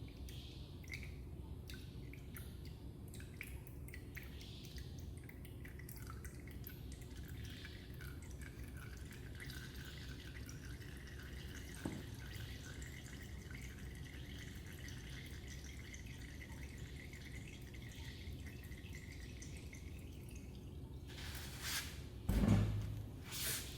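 Engine oil dripping, then running in a thin steady stream that stops suddenly about twenty seconds in. A dull thump follows near the end.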